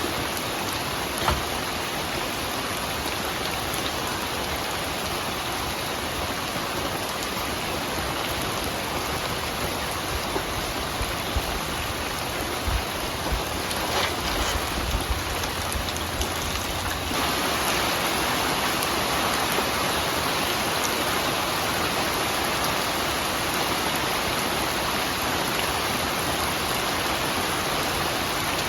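Steady rain falling, with a few sharper drop ticks; about two-thirds of the way through the rain turns slightly louder and brighter and stays that way.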